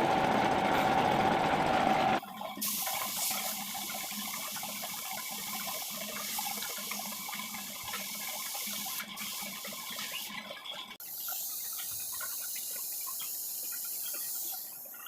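A machine runs loud with a steady hum for about two seconds, then cuts off suddenly. A steady high-pitched hiss follows and shifts twice later on.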